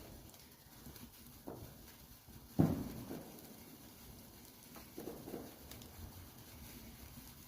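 Wood fire crackling in a fireplace, with a few irregular soft pops and one louder pop about two and a half seconds in.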